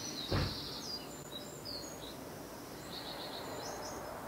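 Small garden birds chirping in short high calls and a quick repeated trill, over steady outdoor background noise. A single brief dull thump just after the start is the loudest sound.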